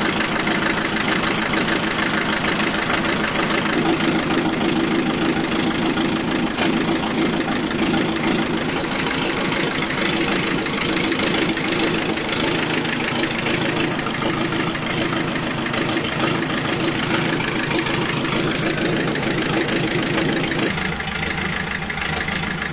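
Engine of the vehicle dragging the old truck out of the barn, running steadily under load. Its note shifts slightly near the end.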